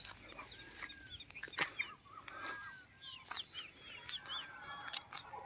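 Birds chirping and calling faintly, with many short high chirps and a repeated arching whistled note, over a few light scattered clicks.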